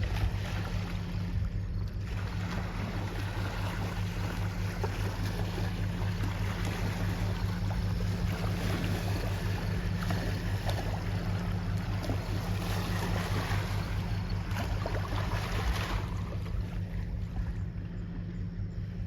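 Low, steady hum of a passing tanker's engines, with the ship's wake waves washing ashore and wind on the microphone; the washing grows for most of the stretch, then eases near the end.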